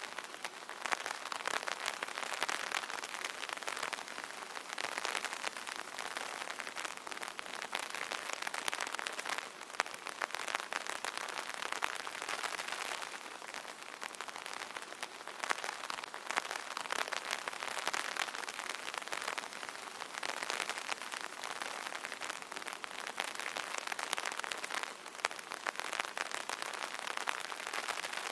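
Light rain pattering steadily on an open umbrella, many small drops ticking on the fabric, swelling and easing gently.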